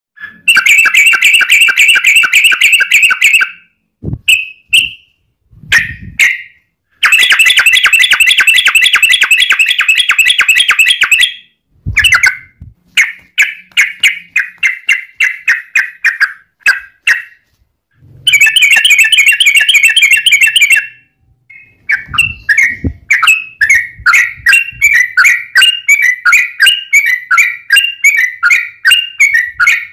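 Yellow-vented bulbul (trucukan) song: long, fast rattling chatter runs, broken by short gaps, alternating with series of separate, quickly repeated bubbling notes.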